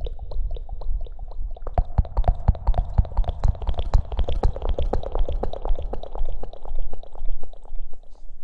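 Close-up rapid scratching and rustling against the microphone, in the manner of ASMR hair washing: many crackly strokes a second over a deep rumble, growing denser about two seconds in.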